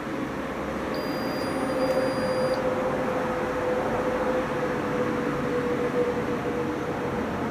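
Washing machine running with a steady hum over a whooshing noise, and a faint high electronic tone for about a second and a half near the start.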